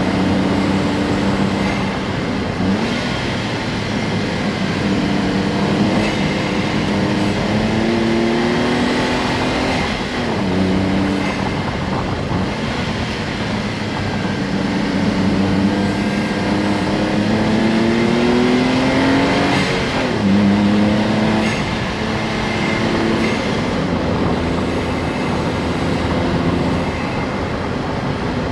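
Honda S660's small turbocharged three-cylinder engine pulling under acceleration, its note climbing steadily and then dropping sharply at each upshift, about three times, over steady road noise.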